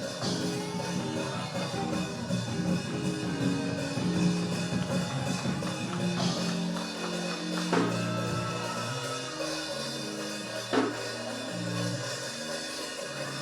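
Church band playing praise music: held keyboard chords that change every second or so, with a few sharp drum or cymbal hits.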